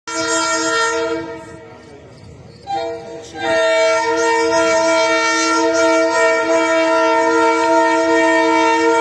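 GE U18C diesel locomotive's horn sounding a chord of several steady notes: a first blast, a short toot about three seconds in, then a long held blast from about three and a half seconds on.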